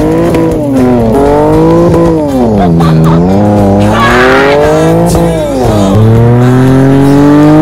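Holden Commodore ute's engine revving up and down repeatedly during a burnout on grass, the rear wheel spinning. There is a burst of tyre squeal about four seconds in.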